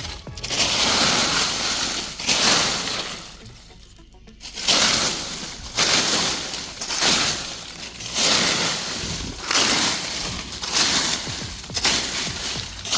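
Dry leaves rustling and crackling as they are turned over and pushed aside by hand, in repeated bursts about once a second, with a short pause about four seconds in.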